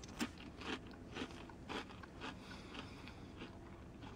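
A person chewing a mouthful of Pringles potato crisp, about two faint crunches a second, thinning out near the end.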